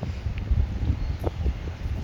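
Wind buffeting the microphone: an uneven low rumble with a few faint clicks.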